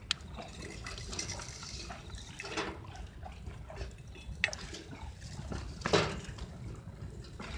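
Wood fire crackling in a rocket stove made from a cut-open 18-litre square can, with a few sharp pops. The loudest pop comes about six seconds in.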